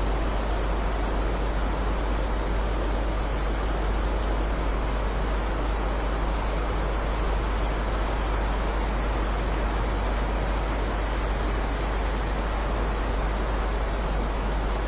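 Steady heavy rain: a dense, even hiss with no separate drops or thunder, over a constant deep low rumble.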